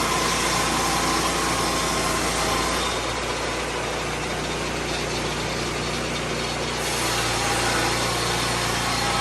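Lucas Mill 10-30 swing-blade sawmill's engine running steadily. It eases off a little for a few seconds in the middle, then comes back up.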